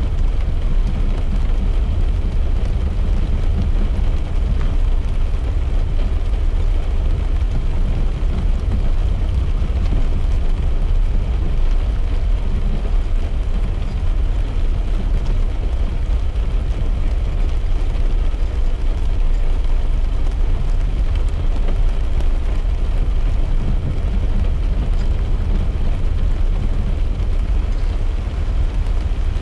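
Steady low rumble of a car driving on a wet road, heard from inside the cabin, with light rain on the car.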